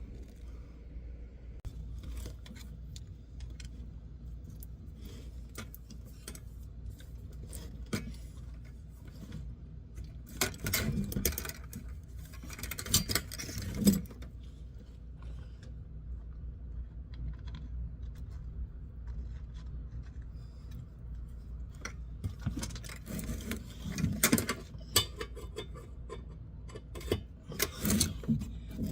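Metal hand tools clinking, rattling and scraping on a truck during repair work, in scattered bursts that are loudest about ten, thirteen and twenty-four seconds in, over a steady low hum.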